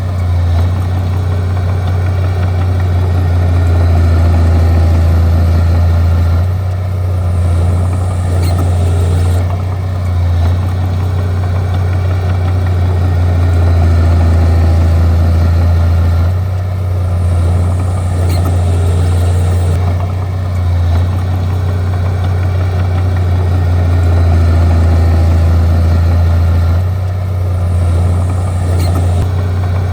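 Bulldozer's diesel engine running with a deep, steady hum, its load rising and easing every several seconds as the machine works.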